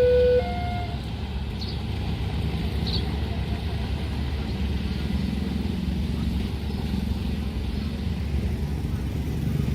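A level crossing's electronic two-tone warning alarm, alternating a lower and a higher note, cuts off about a second in. A steady low rumble of passing vehicles follows.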